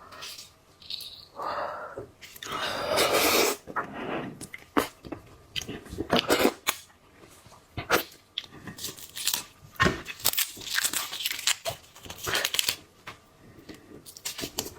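Shellfish being cracked, torn apart and eaten: irregular crunching, cracking and tearing with chewing, and a longer, louder stretch of crackling about two seconds in.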